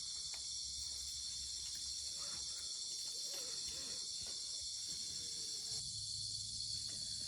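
Steady high-pitched chorus of crickets, with a few faint clicks and faint low warbling calls around the middle.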